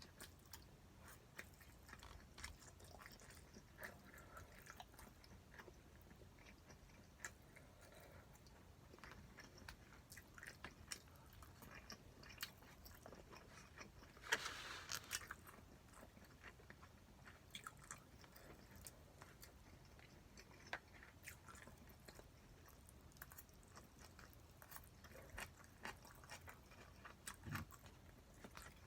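A person chewing spicy stir-fried pork quietly, with many small clicks and taps throughout. About halfway through there is one louder, noisy sound lasting about a second.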